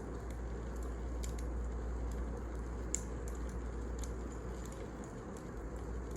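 Wood fire burning in a fireplace: a steady low rumble with scattered crackles and pops, the sharpest about three seconds in.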